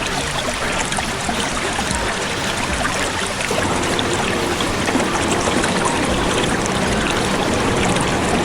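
Steady rushing of water, with faint scattered clicks and splashes through it.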